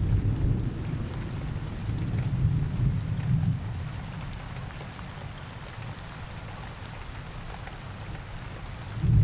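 Steady rain with scattered raindrop ticks, and a low rolling rumble of thunder through the first few seconds that fades, then swells again near the end.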